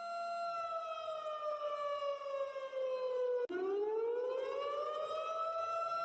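Siren sounding a slow wail: a steady tone that slowly falls in pitch, breaks off abruptly about three and a half seconds in, then rises back up to its steady pitch.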